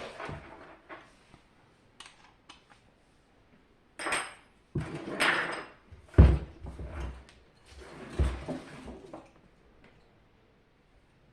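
Clattering and scraping of dehumidifier parts being handled, with two heavier knocks about six and eight seconds in, then quiet near the end.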